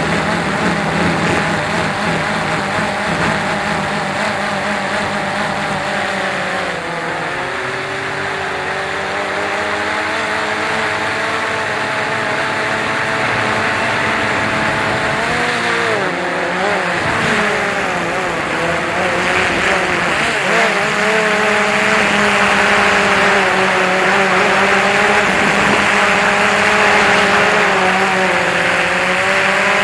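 DJI Phantom 2 quadcopter's motors and propellers whirring, their whine wavering and dipping in pitch as the motor speeds shift. A rushing noise runs underneath and grows louder about two-thirds of the way through.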